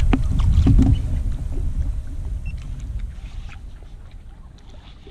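Low rumbling noise around a small fishing boat at sea, with a few sharp clicks and knocks in the first second, dying away over the next few seconds.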